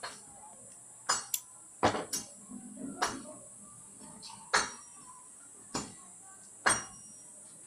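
Irregular sharp metallic clinks and taps, about eight in all, several with a short ringing tail, over a faint steady hiss.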